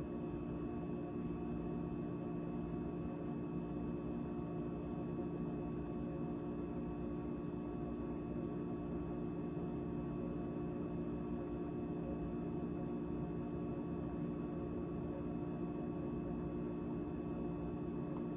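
GE GTH18XCTZRBB refrigerator running after its defrost (heat) cycle: a steady mechanical hum from the compressor and fans, made of several held tones that do not change.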